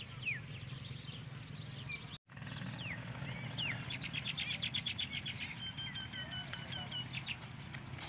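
Small birds chirping and calling over a low steady hum, with a brief break about two seconds in. In the second half one bird gives a fast run of repeated high notes, about eight a second, followed by short repeated whistled notes.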